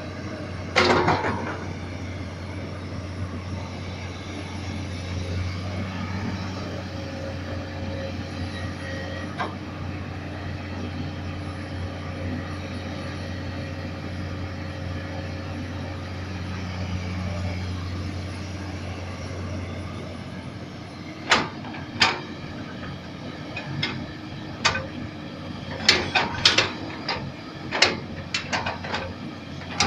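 Komatsu PC200 hydraulic excavator's diesel engine running steadily, with one sharp knock about a second in. Over the last several seconds comes a rapid series of sharp clanks and knocks.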